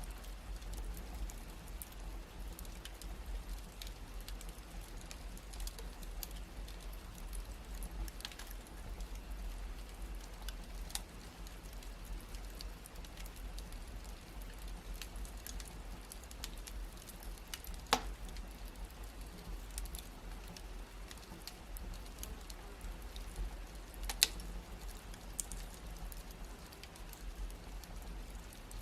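Wood fire crackling in a fireplace: scattered small pops and snaps over a steady low rumble, with two sharper, louder snaps, one a little past the middle and one later on.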